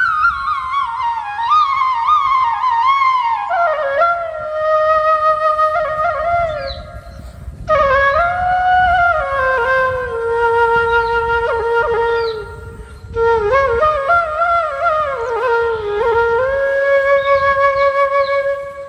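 Solo flute playing a slow, ornamented melody in long phrases, breaking off twice briefly, with a low rumble underneath.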